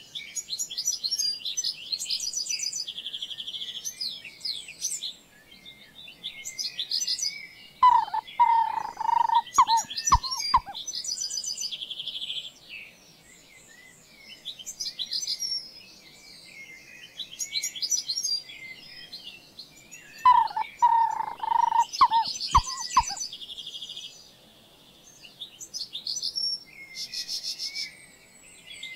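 Birdsong: several birds chirping and trilling high and fast, in clusters separated by brief lulls. Twice, about 8 and 20 seconds in, a lower, louder call cuts through.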